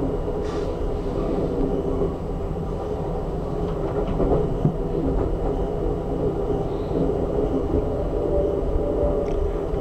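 Steady running rumble of an Amtrak Auto Train passenger car rolling along the rails, heard from inside the coach.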